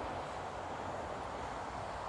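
Steady rushing noise of a Boeing 787 Dreamliner's jet engines at takeoff power.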